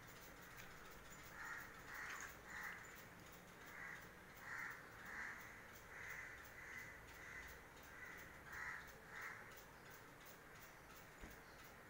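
Faint, repeated short bird calls, about a dozen spread over some eight seconds, stopping near the end.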